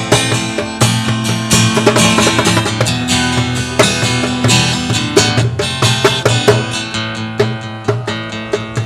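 Music: strummed acoustic guitar chords in an instrumental passage of a rock song, with no singing, easing off a little near the end.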